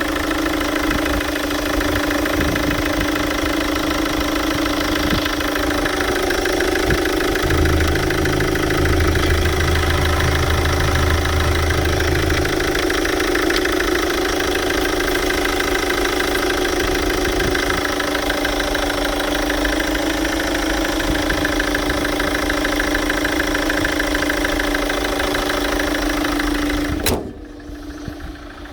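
GM Daewoo Winstorm SUV engine idling steadily, with a low hum added for a few seconds early on. The engine sound stops abruptly near the end.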